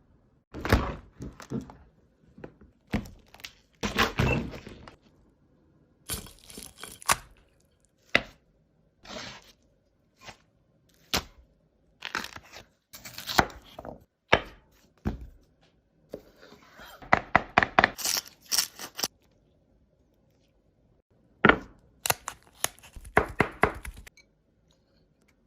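Crab shell being cracked and broken apart: a run of separate sharp cracks and knocks, with two spells of rapid crackling and crunching near the middle and near the end.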